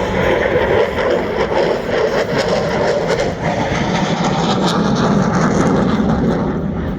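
Loud jet noise from an F-16 fighter flying by low. The main pitch of the roar falls partway through as the jet passes.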